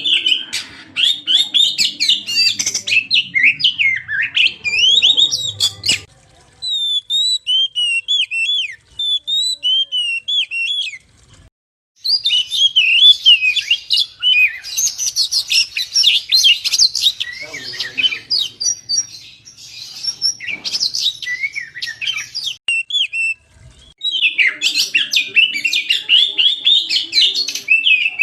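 Oriental magpie-robin (kacer) singing in rapid, varied chattering phrases of chirps and trills. The song breaks off briefly about 6, 11 and 23 seconds in.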